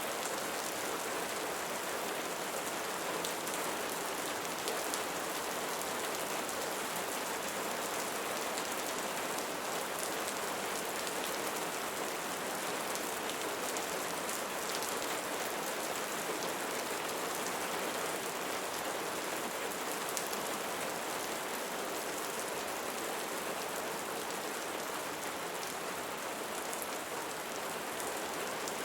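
Steady rain falling, an even hiss of drops on a surface with faint scattered patters.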